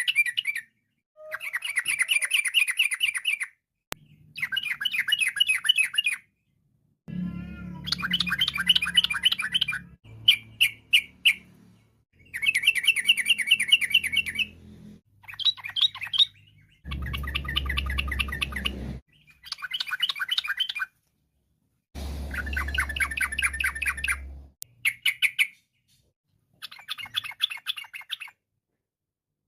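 Yellow-vented bulbul (trucukan) singing: about a dozen rapid warbling phrases of two to three seconds each, separated by short silent gaps, with a low hum under some of them.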